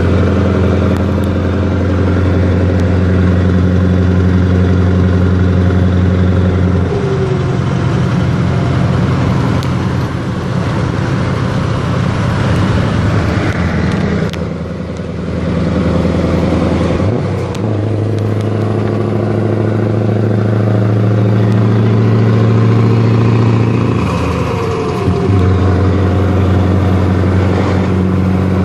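Scania 164L 480 V8 truck engine running through an open straight-through exhaust pipe, a loud, steady note that changes pitch in steps several times, with a short drop in level about halfway through.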